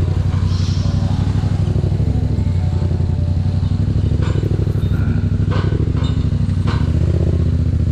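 Yamaha MT-07's parallel-twin engine running steadily through an aftermarket exhaust, a pulsing low exhaust note that holds at an even pitch, with a few brief clicks in the second half.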